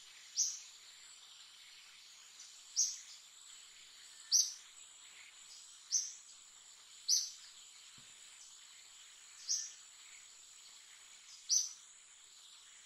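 A bird's short, high chirp, repeated seven times at uneven gaps of one to two and a half seconds, over a steady high-pitched insect drone.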